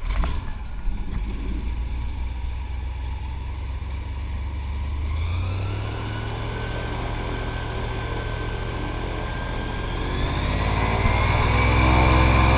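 Airboat engine and propeller starting up, then running and throttling up, rising in pitch about five seconds in and again, louder, near the end.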